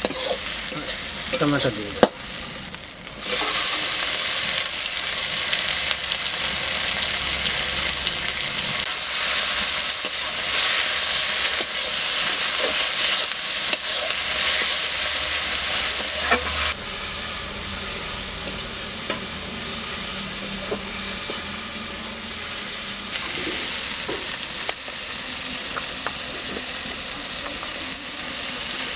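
Onions, dried red chillies and tomatoes frying in oil in a steel wok, sizzling steadily while a metal spatula stirs them and scrapes the pan. The sizzle drops out briefly about two seconds in and runs quieter in the second half.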